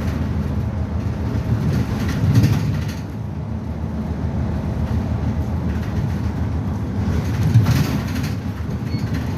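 Engine and road noise of a city bus under way, heard from inside the cabin: a steady low running drone, with two brief louder jolts about two and a half and seven and a half seconds in.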